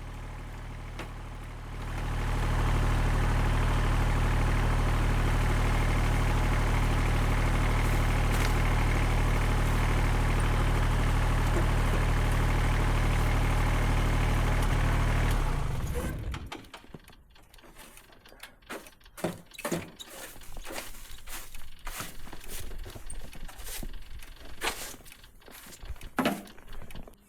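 Tractor engine running steadily. It gets much louder about two seconds in and cuts off about fifteen seconds in, followed by a scatter of knocks and clicks.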